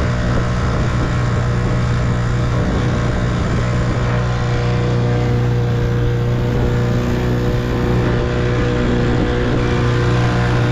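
1958 Evinrude 3 hp two-stroke outboard motor running steadily at a constant speed.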